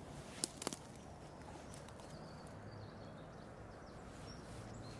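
Two sharp clicks in quick succession about half a second in, then steady outdoor background with a few faint, short bird chirps.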